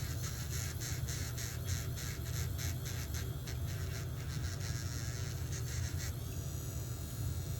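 Rhythmic scraping strokes on a toenail, about three a second, over a steady low hum. The strokes stop about six seconds in.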